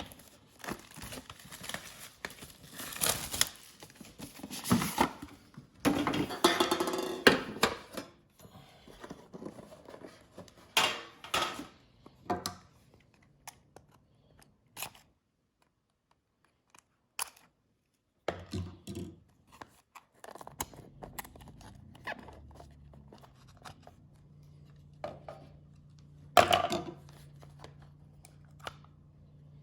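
Plastic shrink-wrap being torn and crinkled off a sealed trading-card box, with dense rustling for the first several seconds. After that come scattered clicks and knocks of cardboard packaging being handled and opened, with one louder burst of handling near the end and a faint steady hum in the last third.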